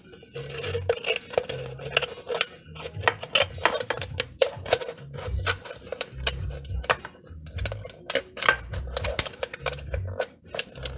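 Rapid, irregular clicks and snips of hand tools working thin aluminium beer-can metal, with low thumps of handling underneath.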